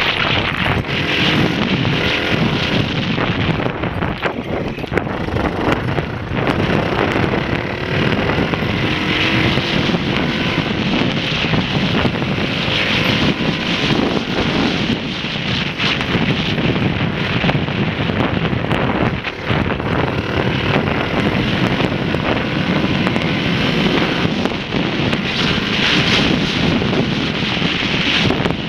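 Honda XLR125 dirt bike's single-cylinder four-stroke engine running while riding, its pitch wavering, under heavy wind buffeting on the microphone.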